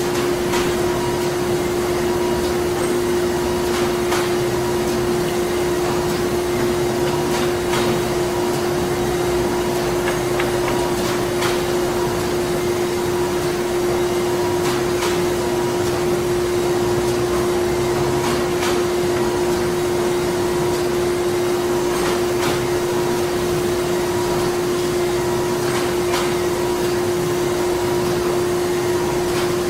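Printing plant machinery running steadily: a constant hum with one strong steady tone over a continuous mechanical noise, with faint clicks every few seconds.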